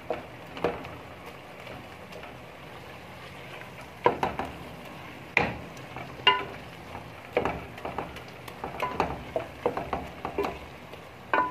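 Mashed turnips frying in oil and spices in a metal pot with a steady low sizzle, while a spoon stirs and mashes them, knocking and scraping against the pot a dozen or so times. This is the bhuna stage, frying the mash until the oil separates.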